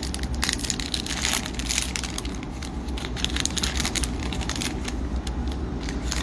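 Crinkling and tearing of a hockey-card pack wrapper, with cards being handled, in irregular rustles and clicks. A steady low hum sits underneath.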